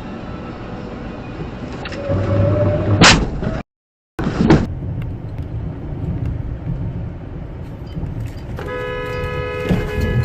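Car driving with steady road and engine noise, and a car horn sounding for about a second a couple of seconds in. The sound drops out briefly at an edit cut, then the road noise resumes. Near the end a steady tone with several pitches starts and holds.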